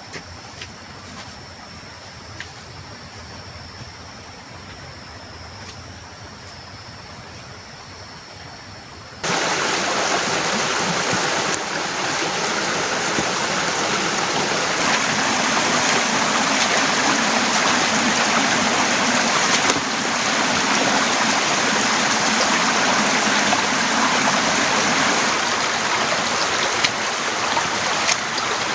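Quiet outdoor ambience with a steady high-pitched thin tone and a few light ticks. About nine seconds in it switches abruptly to the loud, steady, dense rush of torrential rain.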